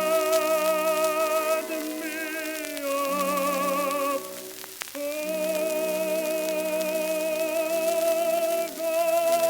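Early acoustic-era 78 rpm shellac record playing: slow, long-held notes with a wide vibrato in several phrases over sustained accompaniment, with light surface crackle. The sound is thin, lacking deep bass and bright treble.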